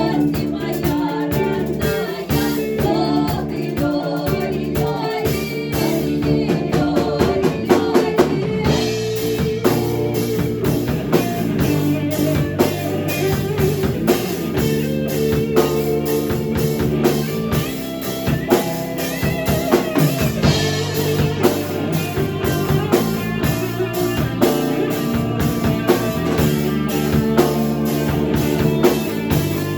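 A band plays a folk-rock arrangement of a Russian folk song on guitar and drum kit with a steady beat, and a voice sings over the first part.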